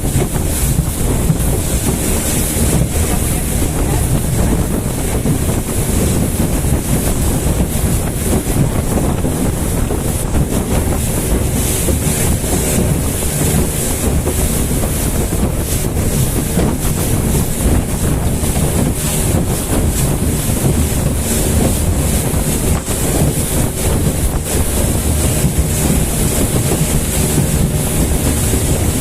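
Motorboat under way: a steady engine drone with water and hull noise, and wind buffeting the microphone.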